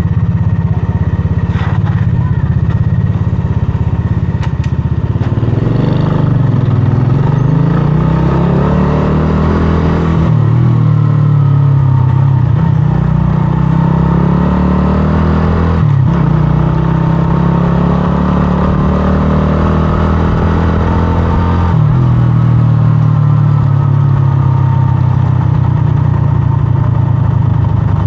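125cc scrambler motorcycle engine under way, its pitch climbing as it accelerates through the gears, with shifts about 10, 16 and 22 seconds in where the pitch drops and then rises again.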